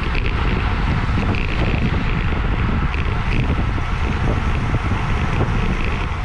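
Heavy wind rushing over the microphone of a bike-mounted action camera during a fast criterium ride, steady and loudest in the bass.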